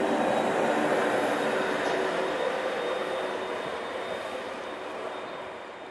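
Electric passenger train running past and moving away: a steady rushing noise with a faint hum, fading over the last couple of seconds.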